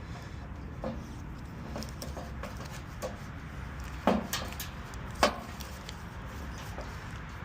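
Scattered light clicks and knocks of tools and parts being handled during work on a furnace blower, with two sharper knocks about four and five seconds in, over a steady low hum.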